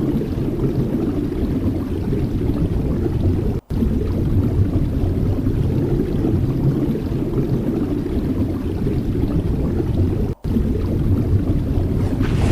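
Steady low rushing noise of sea and wind on the microphone, broken twice by a momentary drop-out to silence, once a little after three and a half seconds and once just after ten seconds.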